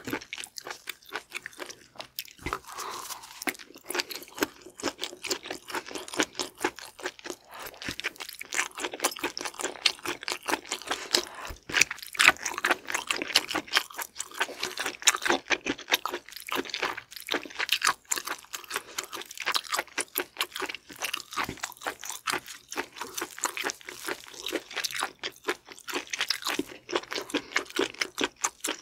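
Close-miked chewing of raw seafood: a dense run of rapid crunchy, wet clicks and crackles as the food is bitten and chewed.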